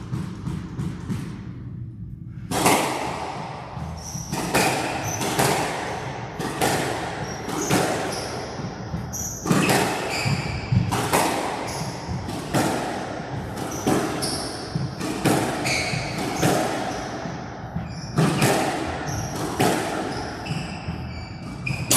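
Squash rally: the ball is struck by rackets and smacks off the court walls, giving sharp, echoing hits roughly every half second to a second. The hits begin about two and a half seconds in, after a short quieter stretch.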